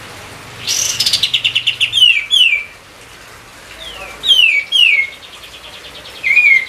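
A songbird singing: a fast chattering trill, then several loud whistled notes that slide downward in pitch, and a short call near the end.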